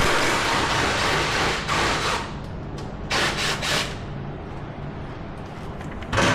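Power tool run in bursts to undo a fastener: a long burst of about two and a half seconds, a shorter one about three seconds in, and a brief one near the end.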